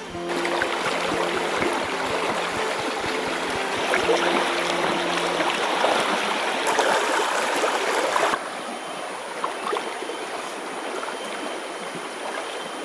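Mountain river water flowing, a steady rushing hiss; it drops to a quieter flow about eight seconds in.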